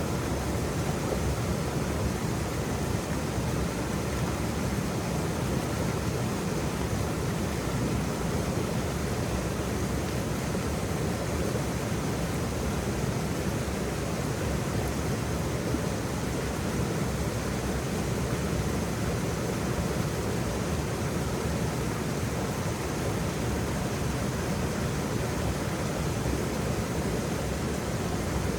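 Waterfall: a steady, deep, unbroken rush of falling water.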